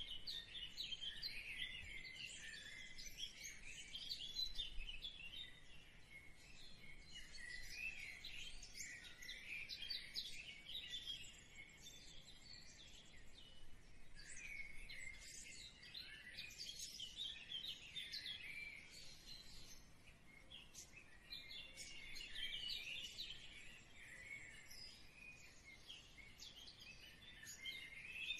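Small birds chirping and twittering continuously in a dense, high-pitched chatter.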